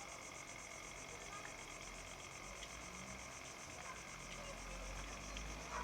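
A dense insect chorus chirring steadily in fast, even pulses, high-pitched, with a faint low rumble underneath from about two seconds in.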